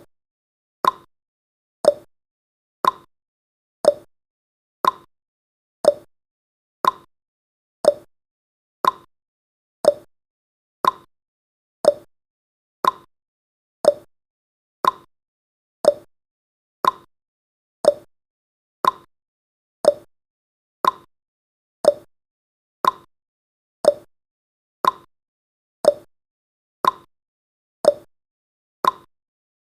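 Countdown timer's clock-style ticking sound effect: one short, sharp tick each second, evenly spaced.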